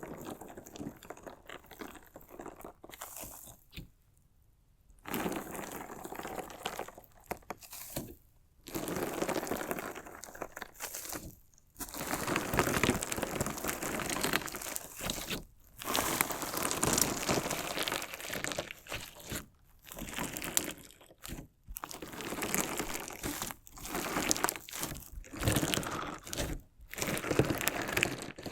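Crunchy slime made with decorative interior stones being worked by hand close to the microphone: bursts of crackling, crunching sound a second or two long, separated by brief pauses, fainter for the first few seconds.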